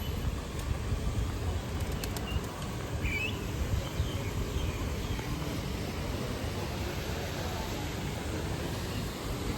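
Outdoor street ambience: a steady low rumble, with a faint bird chirp about three seconds in and a couple of light clicks just before it.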